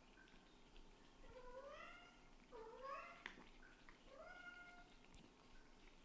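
A kitten meowing three times, each call short and rising in pitch, with a faint click during the second call.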